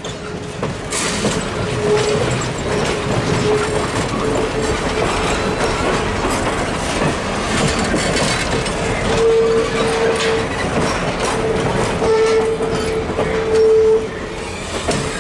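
Excursion train's passenger coaches rolling past at close range over a trestle: steady wheel rumble and rail clatter, with an on-and-off squeal from the wheels.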